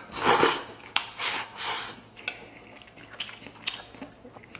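Close-up eating sounds: two loud noisy mouthfuls in the first two seconds, then quieter chewing with scattered light clicks of utensils on dishes.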